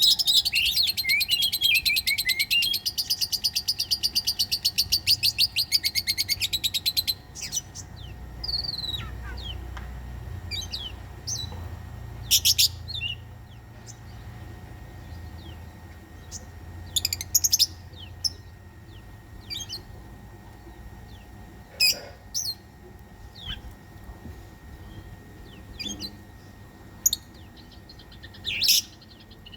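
Oriental magpie-robin (kacer) song used as a lure: a fast chattering run of rapidly repeated high notes for about the first seven seconds, then scattered short chirps and whistled phrases.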